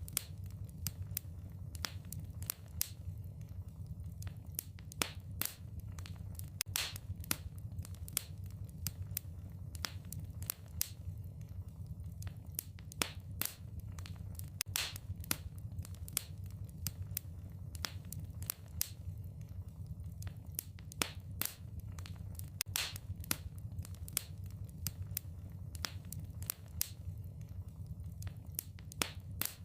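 Wood fire in a fireplace crackling, with irregular sharp pops and snaps several times a second over a steady low hum.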